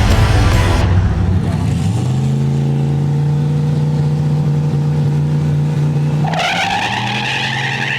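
A drag car's engine held at steady revs, then its tires break loose and squeal hard from about six seconds in, as in a burnout.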